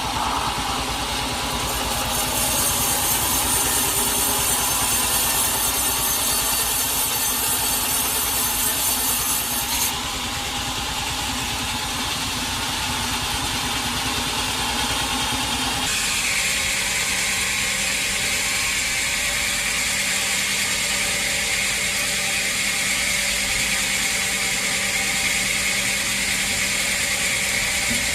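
Sawmill machinery running steadily as timber is sawn, a continuous mechanical noise whose character changes abruptly twice, about ten seconds in and again about sixteen seconds in.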